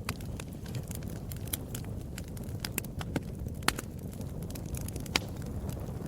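Wood fire in a fireplace crackling: irregular sharp pops and snaps over a steady low rumble, with the loudest pops a little past halfway and about five seconds in.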